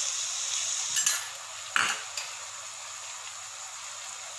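Onions, garlic and sauce sizzling in a wok, with a metal spoon clinking against a small steel bowl about a second in and again, more sharply, near two seconds in; after that the sizzle settles to a quieter steady hiss.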